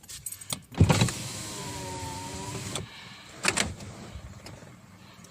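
A click, then the Mitsubishi Mirage G4's newly refitted electric fuel pump whining steadily for about two seconds, dipping slightly in pitch as it primes at key-on. A second short click follows about a second later.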